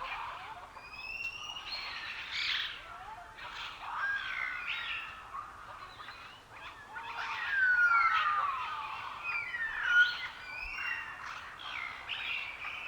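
Several songbirds singing and calling at once in a forest: overlapping whistles and chirps, many of them sweeping or falling in pitch.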